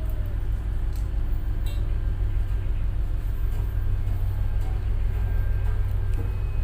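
Tug boat engine running, a steady low drone heard on board.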